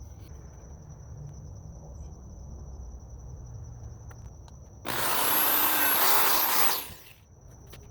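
A loud, even rush of hissing noise lasting about two seconds, starting about five seconds in and stopping suddenly, over crickets chirping steadily.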